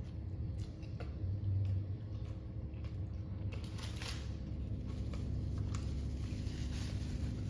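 Faint chewing and rustling of a burrito being eaten, over a steady low background hum.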